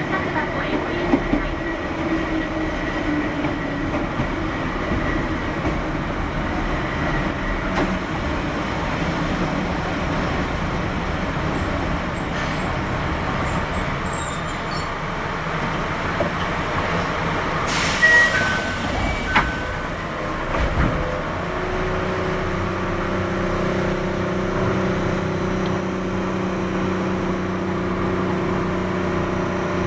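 Running sound recorded aboard a Keihan 600 series electric train: a steady rumble of wheels and motors on the rails. A few short high beeps sound about two-thirds of the way through, and a steady low hum comes in soon after.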